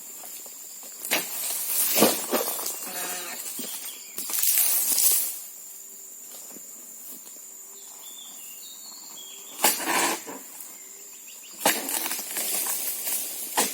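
Irregular bursts of rustling and crunching, one longer burst about halfway through, with faint high bird-like chirps in the quieter stretch between them.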